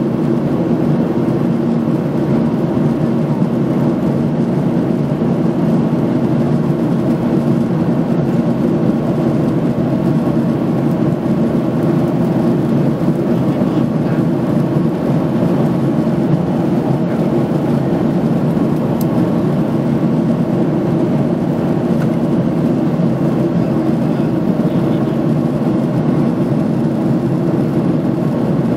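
Steady jet-engine and airflow noise heard inside an airliner cabin in flight, an even rumbling hiss with no changes.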